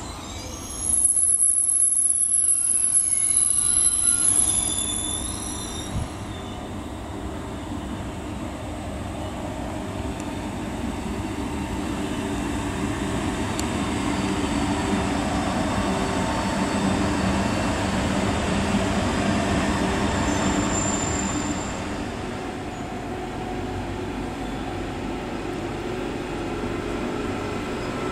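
SBB RABe 503 (ETR 610) electric tilting train running past on a curved track: a loud high-pitched wheel squeal in the first few seconds, then a steady rolling rumble of the coaches that grows louder mid-way and eases a little near the end.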